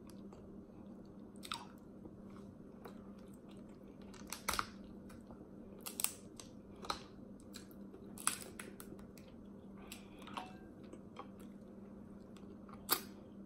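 Close-miked chewing and mouth smacking, with scattered sharp cracks and clicks of snow crab leg shells being snapped and pulled apart by hand. The loudest crack comes near the end.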